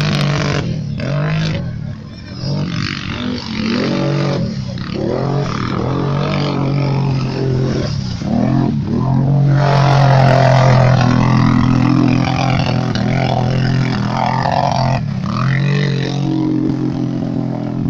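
A motor vehicle engine running, its pitch rising and falling.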